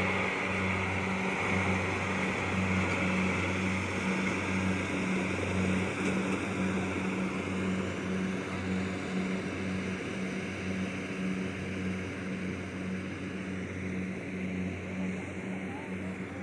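Kubota DC70 Plus combine harvester's diesel engine running steadily in the field, a low pulsing hum with a hiss above it, slowly getting a little quieter.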